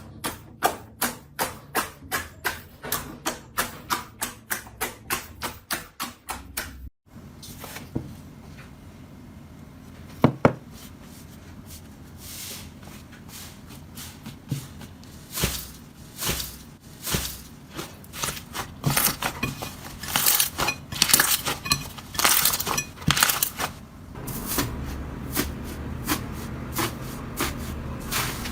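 Slime being handled by hand: a steady run of sharp clicking pops, about three a second, stops abruptly about seven seconds in. After that come irregular crackles and clicks that grow busier toward the end.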